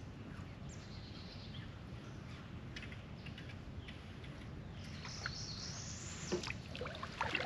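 Small birds chirping and calling over a steady low outdoor background hiss, with a longer high call about five seconds in and a few light knocks near the end.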